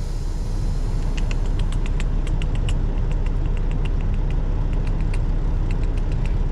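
Semi-truck engine running steadily, heard from inside the cab, with light irregular ticks of rain hitting the cab.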